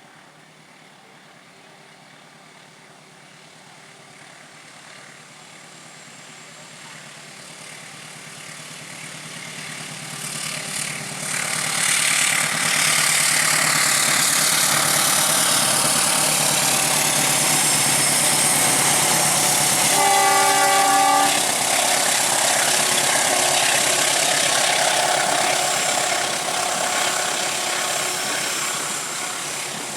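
A train approaching and growing steadily louder, then passing close with loud, steady running noise before it begins to fade near the end. About two-thirds of the way through comes a short horn blast lasting about a second.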